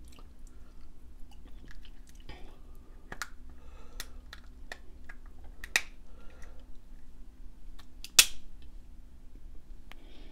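Close-miked chewing with scattered clicks and small cracks of seafood shell being picked apart by hand, one sharper crack about eight seconds in.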